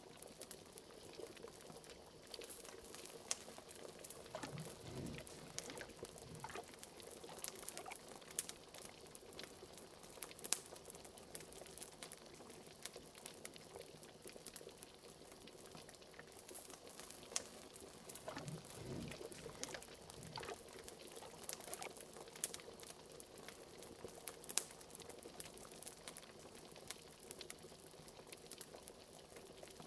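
Thick liquid bubbling and gurgling at a simmer, as in a cauldron, over the steady light crackle of a wood fire. A couple of deeper gurgles rise out of it, about five seconds in and again near twenty seconds.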